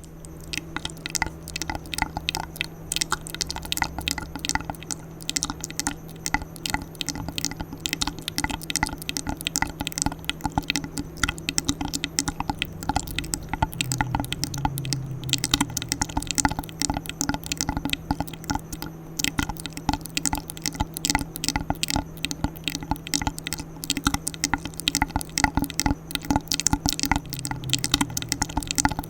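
ASMR mouth sounds: a fast, steady run of wet clicks and smacks close to the microphone.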